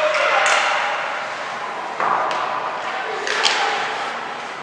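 Voices calling and chattering in a large echoing hall during a youth game, with three sharp knocks: about half a second in, about two seconds in, and a louder one about three and a half seconds in.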